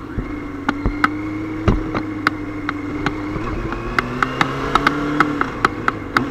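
Motorcycle engine running steadily while riding, heard from a bike-mounted camera, with its pitch holding fairly even and a slight rise near the end. Scattered sharp clicks and knocks sound throughout, and the sound cuts off suddenly at the end.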